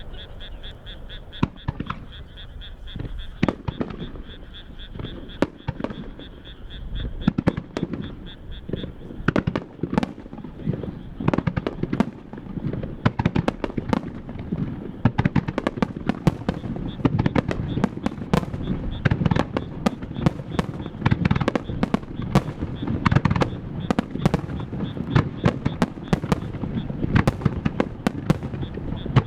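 Japanese starmine fireworks display: rapid-fire shells launching and bursting. The bangs are scattered at first, then thicken from about nine seconds in into a dense, continuous barrage of booms and crackles.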